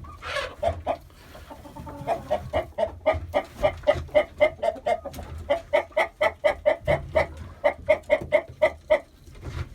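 Domestic chickens clucking in long rapid runs of short notes, about five a second, broken by a few brief pauses.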